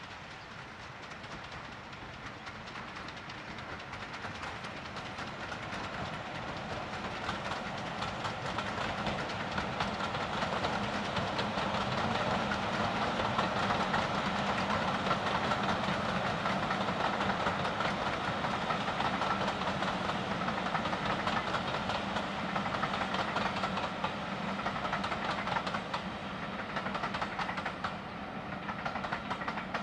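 Diesel locomotive and its train passing, the engine giving a steady droning note. It grows louder to a peak about halfway through and eases off near the end.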